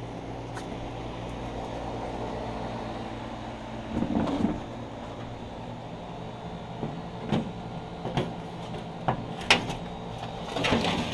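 A steady mechanical hum, like an outdoor air-conditioning unit, with a short rattling scrape about four seconds in and several sharp clicks and knocks in the second half.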